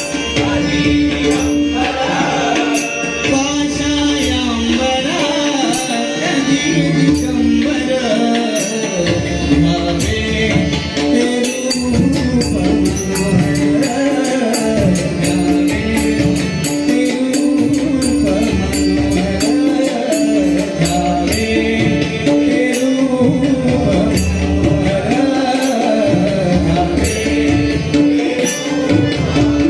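Devotional abhang singing by a male vocalist over a steady held drone, with a hand drum keeping a beat and jingling percussion throughout.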